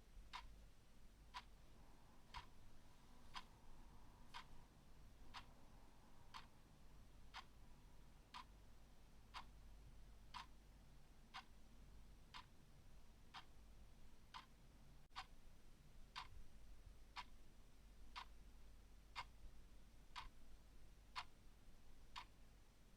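Clock ticking quietly and steadily, about one tick a second.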